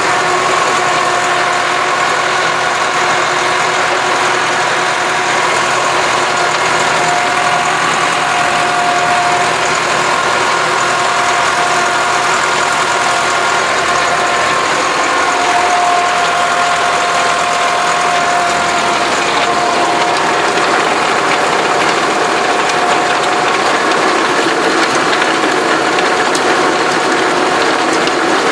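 Massey Ferguson tractor engine running steadily while working the ground, with a constant whine over the engine noise.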